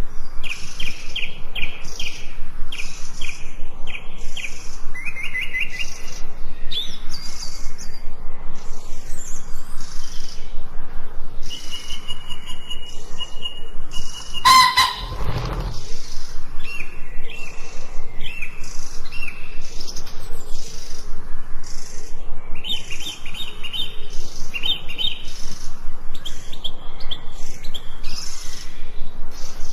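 Forest songbirds singing in short repeated trills and chirps over a steady pulsing chirp about twice a second, with one louder, harsher call about halfway through.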